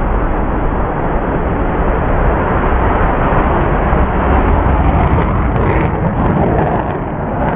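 F-15 Eagle jet engines, loud and steady, with a dense rushing roar that eases slightly near the end.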